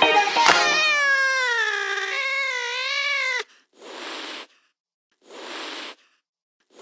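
A cat's long drawn-out meow, falling in pitch and then wavering, which cuts off sharply after about three seconds. It starts as the music ends, about half a second in. Short puffs of hissy noise then follow, about one every second and a half.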